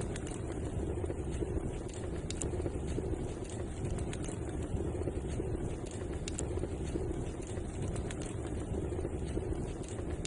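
Fireplace fire burning with a steady low roar and an occasional sharp crackle or pop every second or two.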